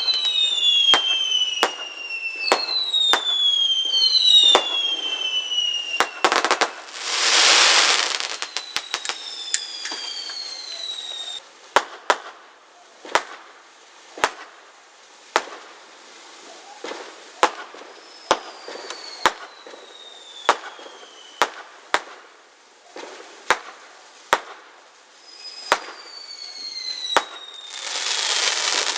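Fireworks going off: whistling shells with falling whistles, a loud hiss a little after the first quarter, then a string of sharp bangs about one a second through the second half.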